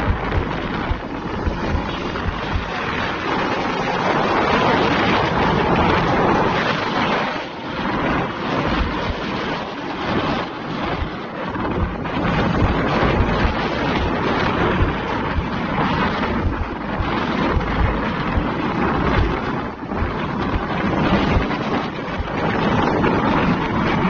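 Trucks driving on a highway: a steady, unbroken mix of engine and road noise, with heavy wind buffeting on the microphone.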